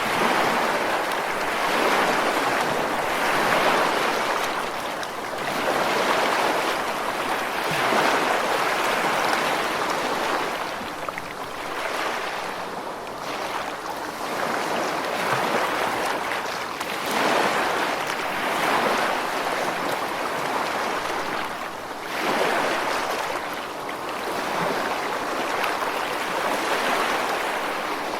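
Ocean waves washing in and out, a continuous rushing that swells and fades every few seconds.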